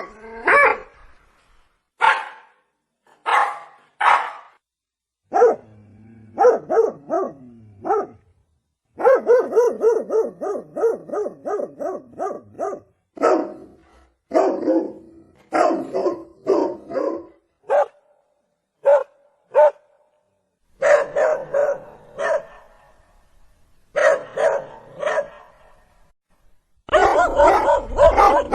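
Dog barking in a series of bursts separated by short silences, including a fast run of several barks a second near the middle.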